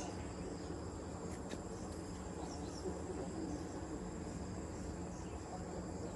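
Steady high-pitched chorus of insects chirring over a low background rumble, with a couple of faint clicks about a second and a half in.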